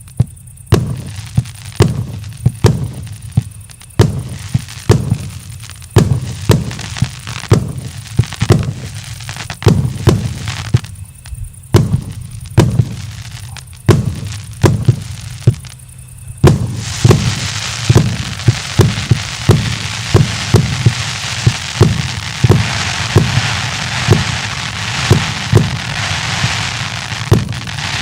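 Joker Fireworks "Generalsky" 232-shot fan-type fireworks battery firing shot after shot: sharp booms, roughly one to two a second, with brief pauses between volleys. About sixteen seconds in, a dense crackling sets in beneath the continuing booms.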